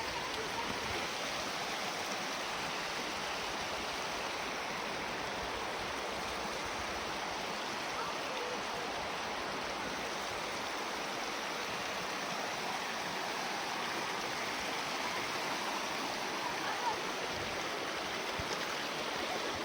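Shallow stream water rushing over stones, a steady, even noise.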